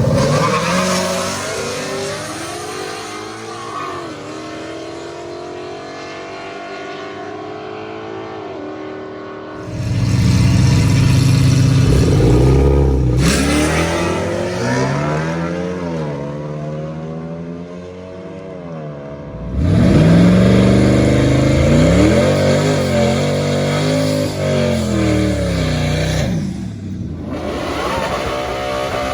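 Drag-racing street cars revving and accelerating hard. The engine pitch climbs and falls again and again through gear changes, with loud surges about ten seconds in and again about twenty seconds in.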